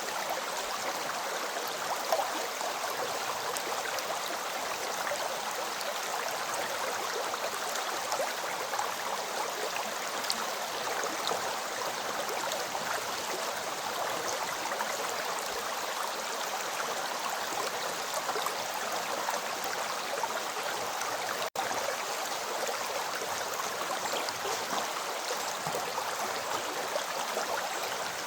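A flowing river stream rushing steadily, with one split-second dropout to silence about three-quarters of the way through.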